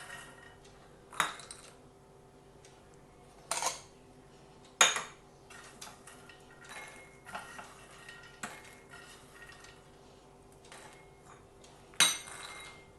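A spoon clinking and scraping against a bowl as roasted makhana (fox nuts) are spooned in, with four sharp ringing clinks standing out among softer taps and scrapes.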